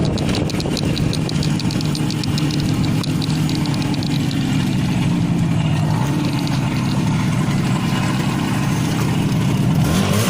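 IZh Jupiter 5's two-stroke twin engine running steadily, its pitch sagging slightly over the first few seconds, with a fast light ticking through the first four seconds.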